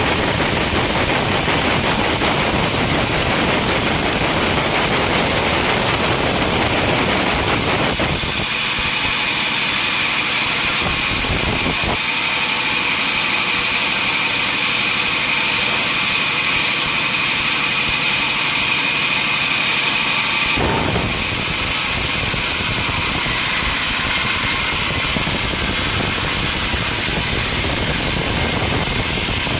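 Sawmill machinery running loudly and steadily, with a high steady whine from about 8 to 21 seconds in that starts and stops abruptly.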